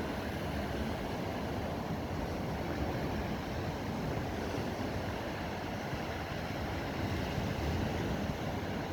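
Steady wind and ocean surf: a constant rushing noise, heaviest in the low end, with no separate events standing out.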